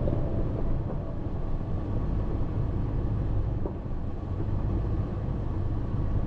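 2023 Toyota 4Runner TRD Off Road driving a rough dirt trail: a steady low rumble of tyres, suspension and engine.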